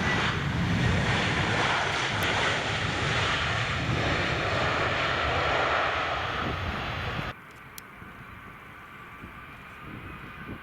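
Aircraft engines running loud and steady, cutting off abruptly about seven seconds in to a much quieter, faint engine hum.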